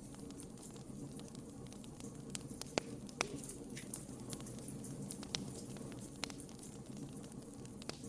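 Wood fire burning in a fireplace: a steady low rumble of flames with irregular sharp crackles and pops, the loudest pop about three seconds in.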